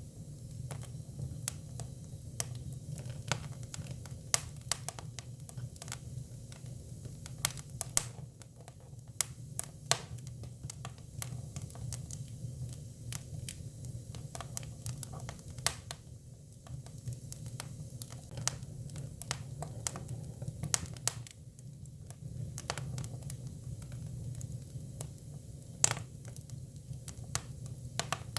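Hinoki cypress firewood burning, crackling with irregular sharp pops over a low, steady hum.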